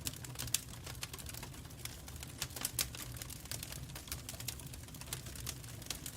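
Wood fire burning in a fireplace: irregular crackles and snaps over a steady low rumble of the flames.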